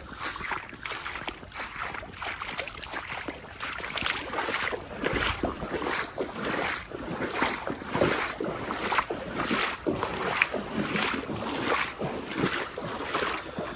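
Legs wading through knee-deep floodwater: a steady run of sloshing swishes, about two strides a second.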